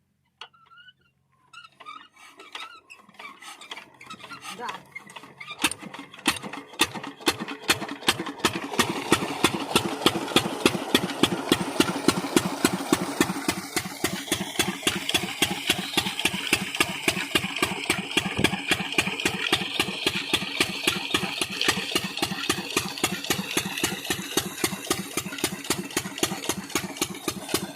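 A 14 hp double-flywheel single-cylinder stationary diesel engine being started: faint slow strokes at first, then firing beats from about five seconds in that quicken and settle into a steady, even idle.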